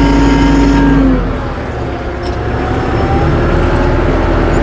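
Tractor engine running under way; about a second in its steady tone drops away and the note becomes lower and rougher as the load or throttle changes.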